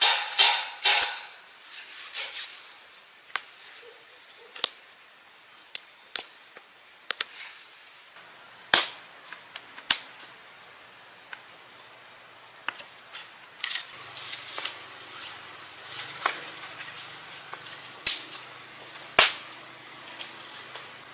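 Scattered sharp knocks and clicks, several in quick succession at the start and then one every second or two, like hard objects being handled and set down during camp work.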